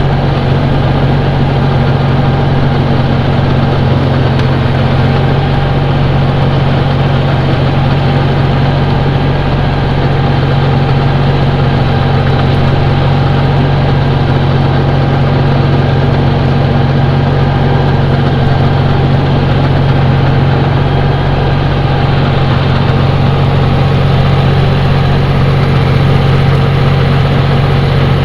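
John Deere tractor's diesel engine running at a steady, even speed, with a strong low hum and no change in revs.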